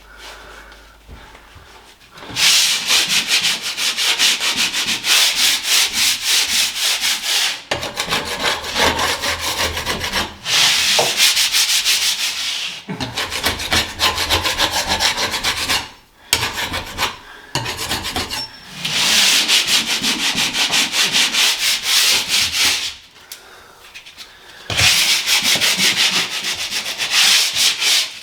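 Sandpaper being rubbed by hand across a ceiling in fast back-and-forth strokes. It comes in runs of a few seconds with short pauses between them: a quiet start, then a longer pause near the end before a last run.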